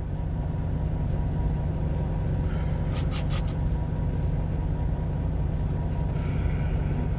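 Steady low rumble of a semi-truck's diesel engine heard inside the cab, with a few brief clicks about three seconds in.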